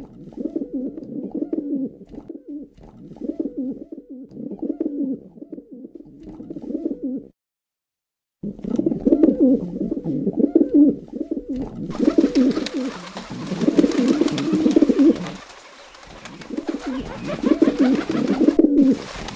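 Pigeons cooing in repeated low phrases, each lasting a second or two. The cooing drops out briefly about seven seconds in, then comes back louder, and from about twelve seconds in it has a steady hiss behind it.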